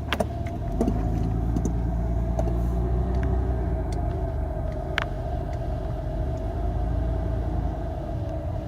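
Car driving slowly, heard from inside the cabin: a steady low engine and road rumble that grows louder about a second in, with a faint steady hum and a few light clicks.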